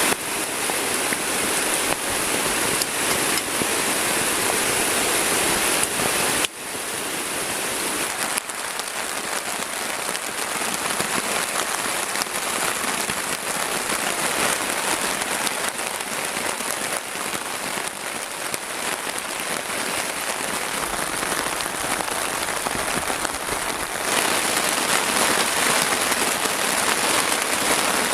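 Heavy rain falling steadily, a dense even hiss. The sound drops abruptly about six seconds in and grows louder again near the end.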